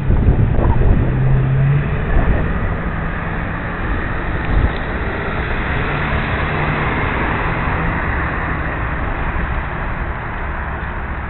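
Wind rushing over a helmet-mounted camera's microphone while cycling, a steady roar. A louder low rumble in the first two seconds.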